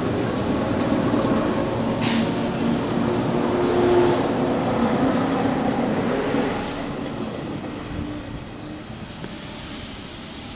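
JR 113 series electric train pulling out of the station and passing close by, wheels and motors loud with a humming tone that climbs in pitch as it gathers speed. A sharp click comes about two seconds in. After about six seconds the sound fades as the train draws away.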